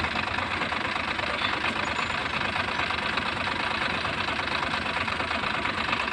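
Diesel engine running steadily at idle, an even chugging with no change in speed.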